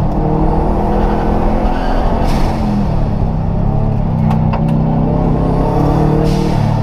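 Rally car engine running hard, heard from inside the caged cabin, the revs rising and falling as the car is driven through the course. A few sharp clicks come about halfway through.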